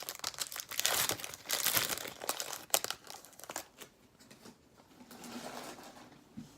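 Foil wrapper of a hockey card pack crinkling and being torn open, busy crackling for the first three seconds or so, then dying down to faint handling of the cards.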